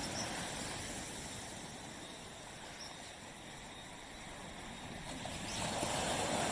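Waves washing onto a beach. The surf ebbs through the middle and swells again as the next wave comes in near the end.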